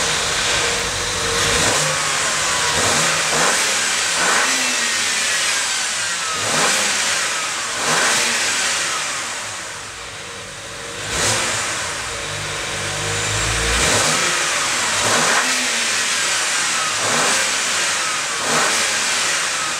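BMW 335i's N54 3.0-litre twin-turbo inline-six, on its stock air intake, being revved repeatedly: about a dozen quick blips of the throttle, each followed by the revs falling back toward idle.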